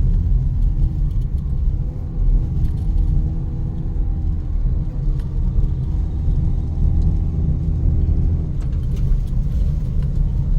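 Car engine and road rumble heard from inside the moving car, with a steady engine note from about two seconds in that fades near the end.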